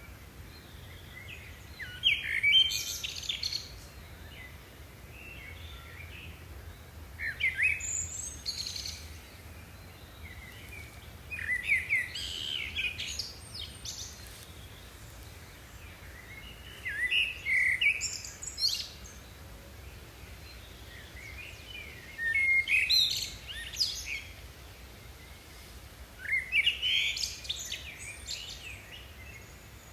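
A songbird singing short warbling phrases, a burst roughly every five seconds, over a faint steady low hum.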